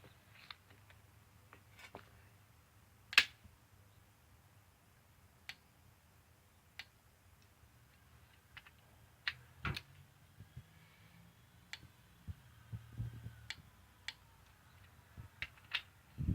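Scattered sharp clicks and light metallic knocks of hand tools being handled on the engine, irregularly spaced, the loudest about three seconds in, over a faint low hum.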